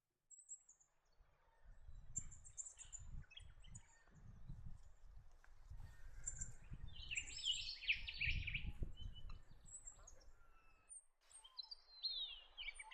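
Tawny frogmouth calling: a low, repeated pulsing note through the middle, with small birds chirping higher above it. Near the end, a run of descending whistles.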